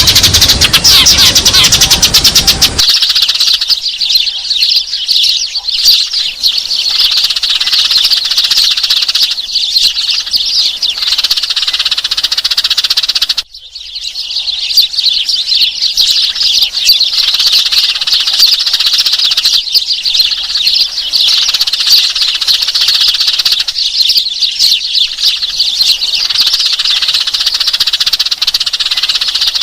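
Sparrows chirping in a dense, continuous, high-pitched flock chatter, with a low noise under the first few seconds. The chatter breaks off for a moment about halfway through, then resumes.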